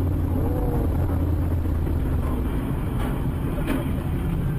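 A car driving, heard from inside: a steady low rumble of engine and road noise.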